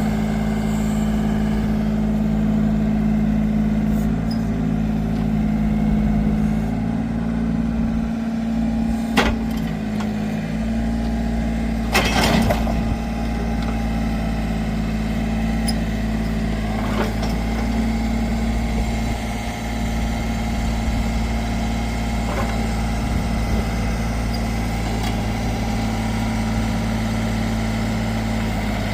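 John Deere 4210 compact tractor's diesel engine running steadily at a constant speed, its pitch unchanging. A sharp knock comes about nine seconds in and a louder, half-second clatter about three seconds later.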